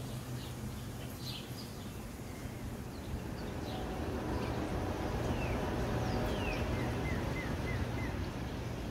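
Small birds chirping, short falling calls here and there and a quick run of five chirps near the end, over a steady low hum.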